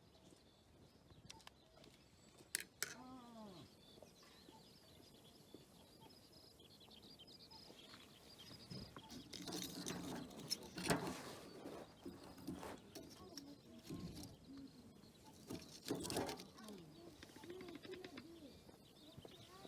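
Birds chirping and calling outdoors, with a few louder noisy swells partway through and near the end.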